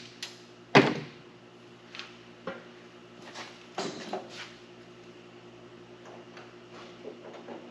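Sheet metal and a wire being handled: one sharp metallic knock about a second in, then a few lighter knocks and clinks, over a steady low hum.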